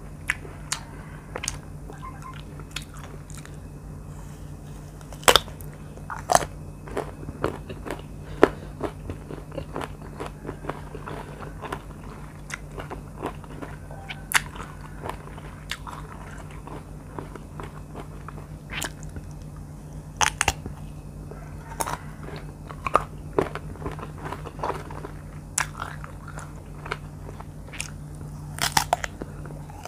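Close-up crisp bites and chewing of firm, sour green R2 mango dipped in chili-salt, heard as many irregular sharp crunches with short pauses between them.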